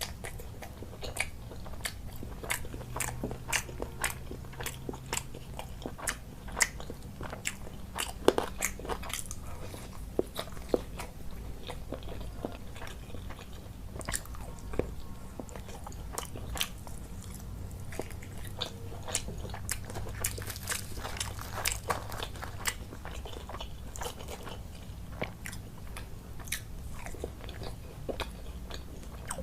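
Close-miked eating sounds: a person chewing and biting food, with many small wet clicks and crunches, over a steady low hum.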